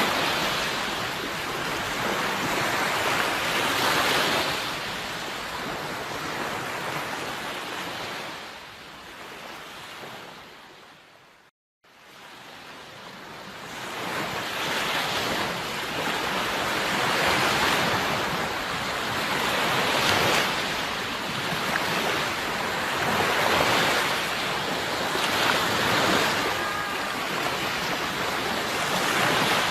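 Sea waves washing onto a shore, swelling and ebbing every few seconds. About twelve seconds in the sound fades away to a moment of silence, then fades back up.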